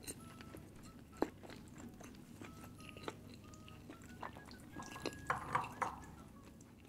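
Close-miked eating: a person chewing and biting food, with small wet mouth clicks and smacks. One sharp click comes about a second in, and a denser cluster of them comes near the end.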